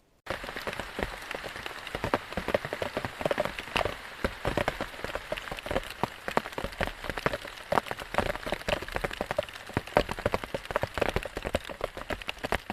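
Heavy rain falling, with dense, irregular close drop impacts over a steady hiss of rain; it starts abruptly just after the start.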